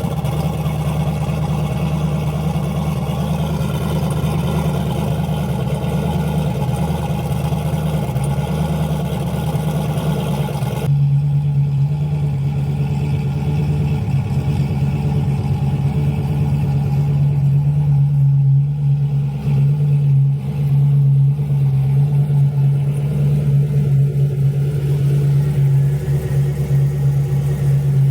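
Cammed Camaro V8 running at idle after a cold start in below-freezing weather. It is a steady, deep engine note; about a third of the way in it becomes louder and duller.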